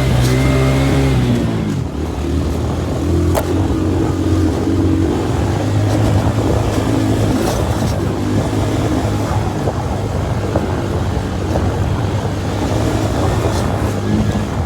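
Motorcycle taxi engine pulling hard up a steep slope: its pitch drops about a second and a half in, then it runs steadily under load beneath a rough rushing noise.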